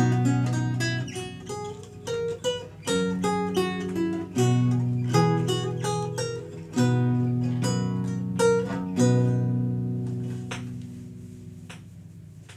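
Renaissance lute played solo: a plucked melody over ringing bass notes. The phrase ends and fades out about ten seconds in, followed by a few faint clicks.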